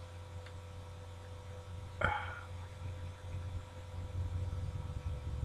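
Steady low electrical hum with a faint high tone over it, broken by one sharp click about two seconds in; a low rumble builds near the end.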